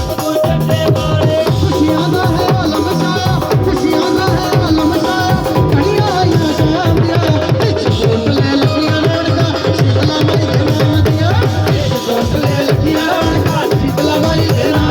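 Live Punjabi folk music in an instrumental passage: fast, steady hand-drum strokes like a tabla under sustained melodic tones, without singing.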